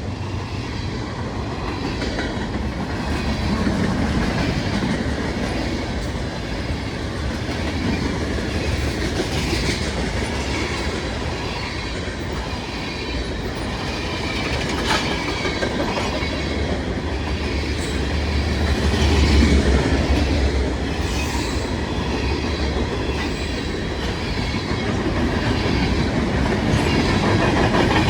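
Freight train cars rolling past, their wheels clacking in a repeating rhythm over the rail joints with a steady rumble underneath that swells in the middle.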